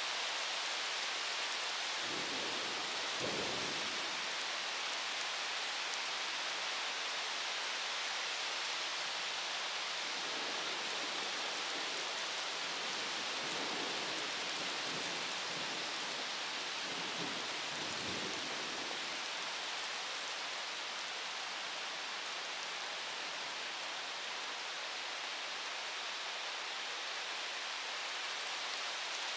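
Steady rain falling in a thunderstorm, an even hiss, with low rumbles of distant thunder about two seconds in and again through the middle.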